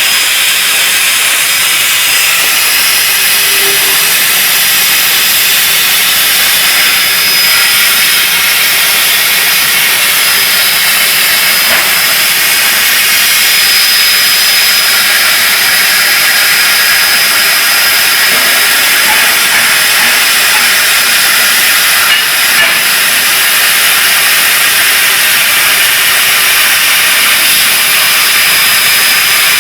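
CNC plasma cutter cutting steel: a loud, steady hiss of the plasma arc and gas jet, with a thin high tone running through it.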